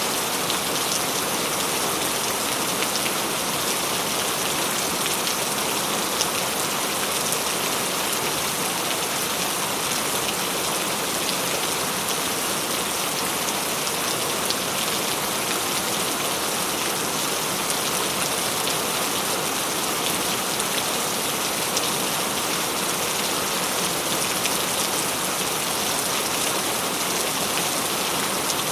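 Steady rain falling, an even dense patter of drops.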